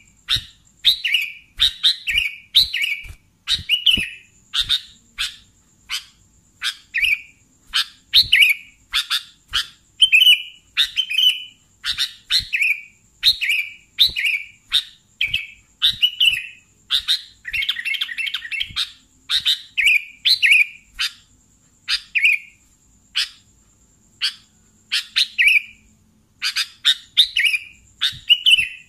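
Sooty-headed bulbul (kutilang) singing persistently, a run of short, bubbly chirped phrases repeated about once or twice a second with brief pauses between.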